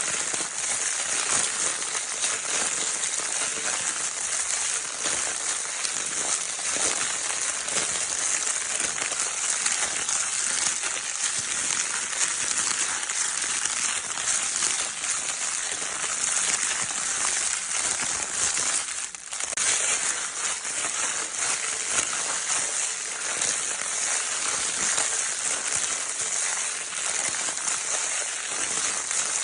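Crinkle paper in a baby's crinkle toy being crinkled continuously: a dense, steady, high crackling hiss, with a brief break about nineteen seconds in.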